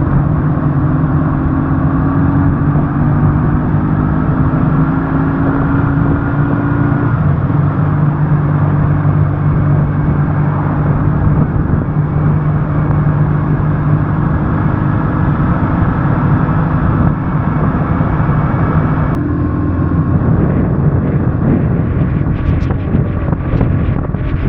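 BMW R1150GS boxer-twin motorcycle engine running under way at cruising speed, with heavy wind rush over the microphone. The engine pitch rises gently at first and changes about seven seconds in and again about nineteen seconds in. A few short ticks come near the end.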